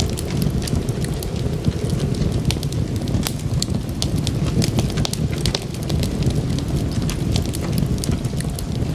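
Wood fire crackling, with frequent sharp pops and snaps at irregular intervals over a steady low rumble.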